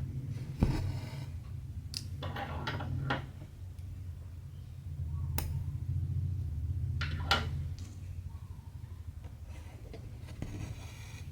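Hand cross-stitching: cotton thread drawn through stamped cross-stitch fabric in a few short rustling pulls, with several sharp ticks of the needle. A low steady hum sits underneath.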